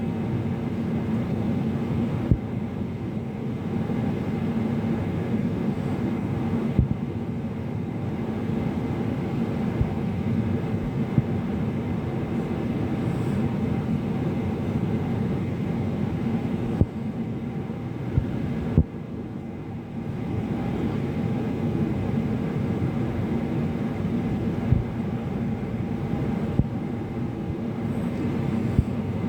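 Airliner cabin noise in flight: a steady low rumble of engines and rushing air, with a few brief sharp clicks now and then.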